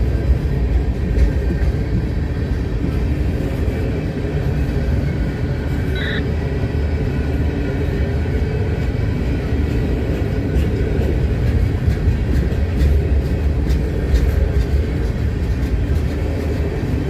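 CSX freight train rolling past, a steady low rumble of wheels on rail, with a brief high-pitched squeal about six seconds in.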